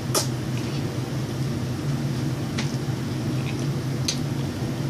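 Steady low hum of a running fan or air conditioner in a small room, with a few faint clicks.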